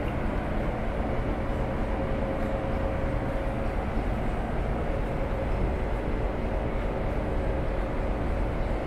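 Pullman passenger coaches rolling slowly past on the track: a steady rumble of wheels and running gear, with a faint steady whine coming in about a second in.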